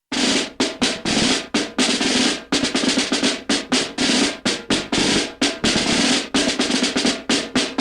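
Percussive music: quick, sharp drum hits in a fast run that speeds up about two and a half seconds in.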